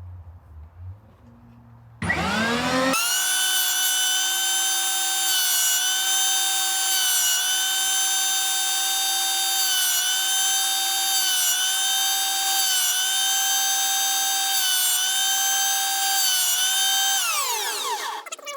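High-speed router-type cutter motor spinning up, then running with a steady high whine that dips slightly in pitch several times as it cuts the wooden mandolin neck's headstock face. It is switched off near the end and winds down with a falling whine.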